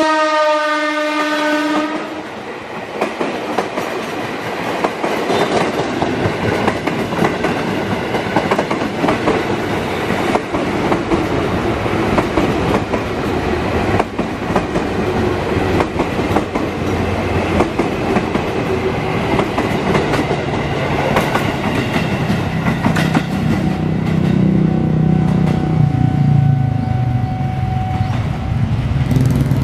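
An ex-JR 205 series electric commuter train sounds its horn, which drops slightly in pitch as the train passes and stops about two seconds in. The cars then clatter steadily over the rail joints as the train runs by, and a lower hum builds near the end.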